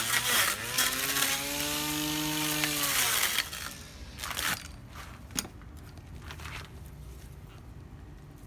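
Cordless battery-powered electric grass trimmer running and cutting, with a steady motor hum and hiss. The hum dips briefly just after the start, then winds down and stops about three seconds in. A few light knocks and rustles follow.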